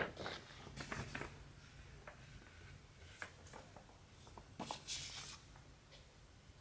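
Hand cross-stitching: short rasps and soft clicks of a needle and cotton thread being pulled through stamped fabric, about four times.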